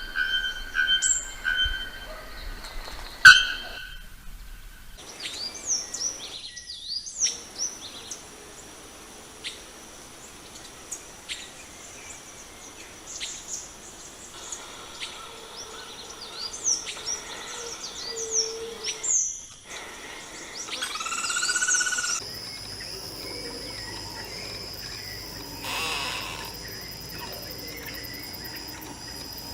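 Several birds singing and calling in tropical forest, with short chirps and quick down-slurred whistles, in spliced recordings that cut off abruptly a few times. From about two-thirds of the way in, a steady high insect drone runs under the calls.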